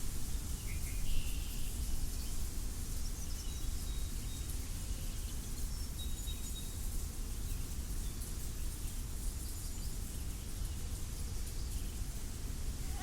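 Steady wind rumbling low, with a few short, faint bird chirps scattered through its first half.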